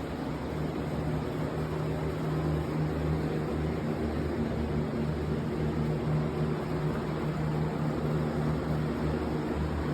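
Steady hum of a ventilation fan: a low drone with an airy rush over it, unchanging throughout.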